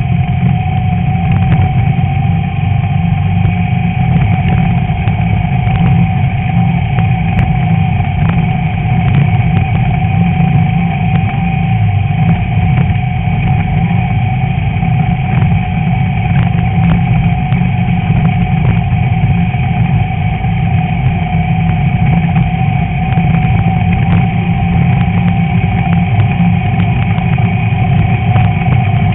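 A Class 11 VW Beetle's air-cooled flat-four engine running steadily under racing load, heard through a hood-mounted camera, with a constant whine and occasional short knocks and rattles.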